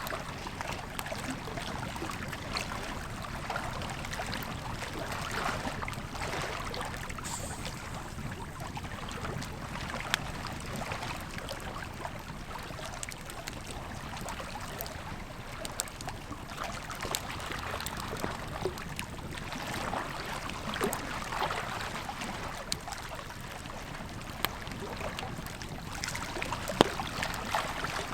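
Wood campfire crackling, with scattered sharp pops, over the steady rush of a flowing river.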